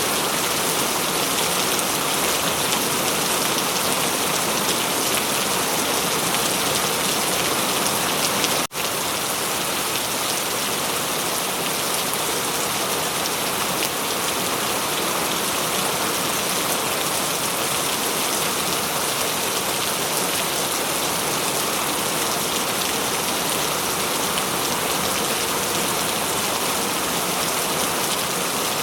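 Steady rain falling, a dense even hiss, with a momentary break in the sound about nine seconds in.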